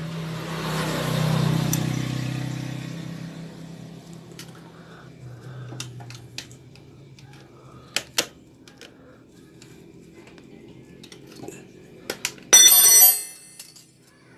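Scattered sharp clicks of hand tools on metal while working on a motorcycle's valve gear, then a loud metallic ringing clatter lasting under a second near the end. A low hum swells and fades in the first few seconds.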